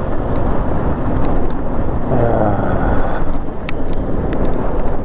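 Wind rushing over the microphone of a moving e-bike, a loud, steady low rumble, with a brief wavering tone about two seconds in.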